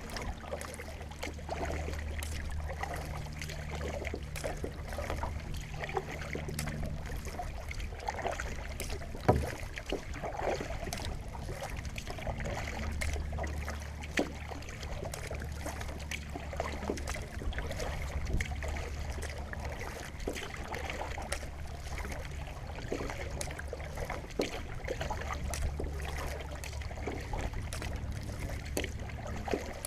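Slow paddling of a solo cedar-strip canoe while trolling: the paddle dipping and swirling through the water, with drips and small splashes over a low steady rumble. One sharper splash or knock about nine seconds in.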